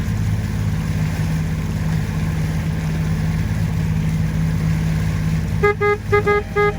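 Motorboat engine running steadily with a low hum. Near the end, a quick run of about five short, high pitched beeps sounds over it.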